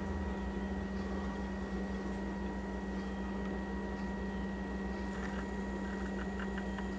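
Steady indoor hum with even background noise, and a few faint ticks about five to six seconds in.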